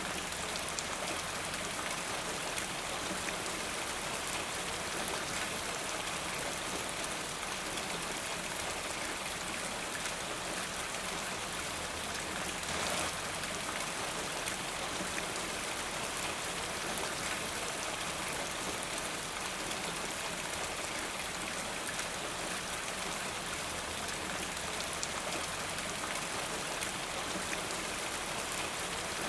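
Steady rainfall, an even hiss of drops with fine ticks of individual drops landing on a surface, briefly heavier about 13 seconds in.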